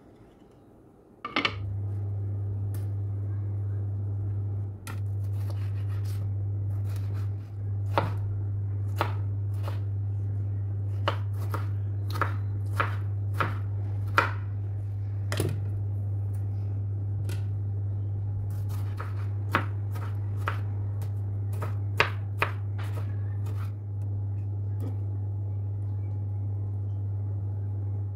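A knife cutting vegetables on a cutting board: a series of irregular sharp taps, over a steady low hum that sets in about a second and a half in.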